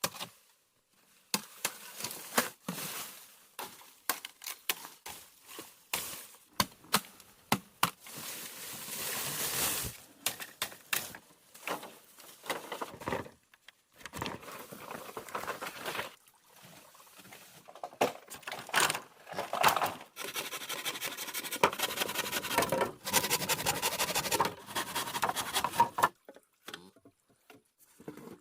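Rustling and crackling of dry plant material being handled, with many irregular sharp snaps and clicks and longer stretches of scraping rustle.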